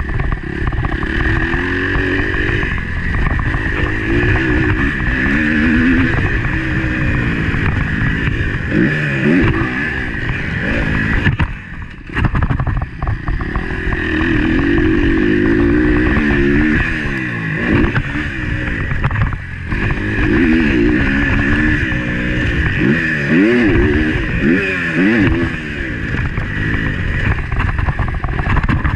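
Motocross bike engine heard on board, its pitch repeatedly rising and falling as the rider works the throttle and gears, with a brief drop in sound about twelve seconds in.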